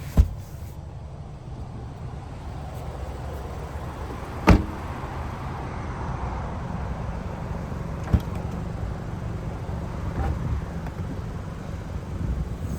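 A vehicle's steady low rumble, with three sharp knocks about four seconds apart, the middle one the loudest.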